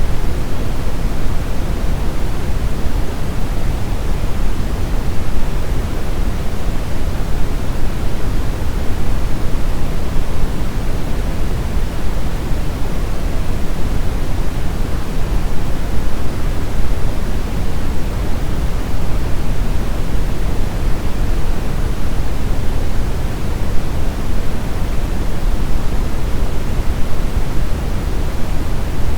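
Steady brown noise: an even, deep rumbling hiss, loudest in the bass and fading toward the treble, with no changes or events.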